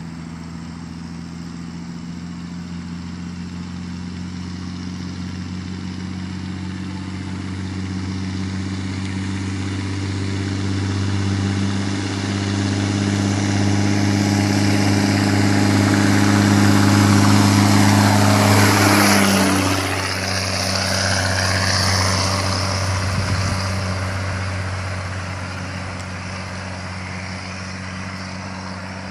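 Turbocharged, straight-piped LDT-465 multifuel inline-six of a 1971 M35A2 deuce-and-a-half running under load up a hill in fourth gear on 80% waste motor oil, with the whistle of its turbocharger over the engine note. The sound swells to its loudest a little past the middle, then the engine's tones drop away suddenly about two-thirds of the way through.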